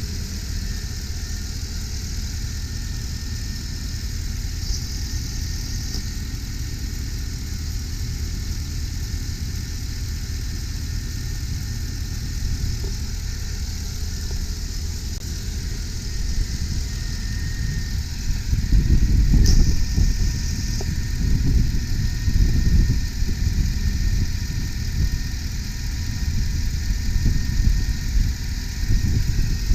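2001 GMC Sierra 3500 HD's 8.1-liter V8 idling steadily. From a little past halfway, louder, uneven low rumbling sets in.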